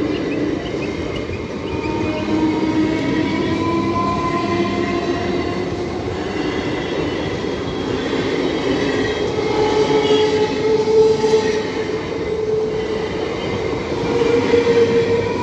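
Indian Railways EMU local train passing close by, its wheels rumbling steadily on the rails under long whining tones that drift slowly in pitch. It grows louder around ten seconds in and again near the end.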